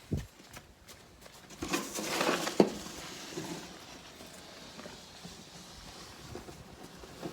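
Snow shovel scraping through packed snow, with a sharp knock of the blade about two and a half seconds in, then quieter scuffing.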